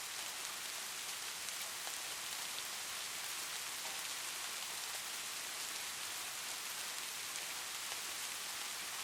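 Steady rain: an even hiss with scattered tiny drop ticks.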